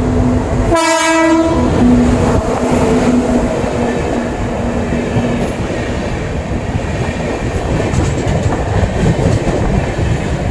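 Passenger train running past at close range at a tunnel mouth: continuous loud rumble and clatter of the coaches' wheels on the rails.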